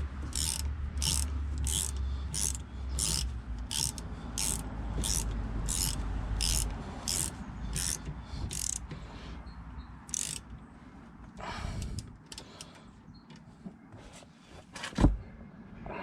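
Ratchet wrench cranked in steady back-and-forth strokes, a short run of ratchet clicks about every 0.6 s, tightening a rear brake caliper bolt; the strokes stop about nine seconds in, with one more near ten seconds. A single sharp knock near the end.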